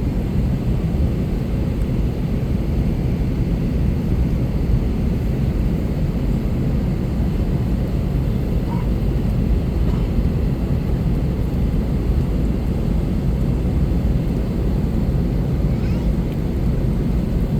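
Steady low cabin rumble inside an Airbus A321-200 with its engines running at idle on the ground before takeoff.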